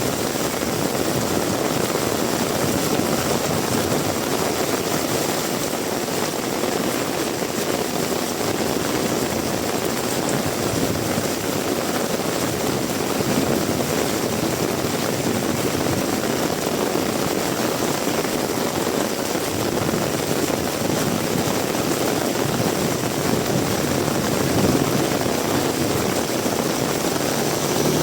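Heavy rain pouring steadily in strong wind, an even, unbroken rushing hiss.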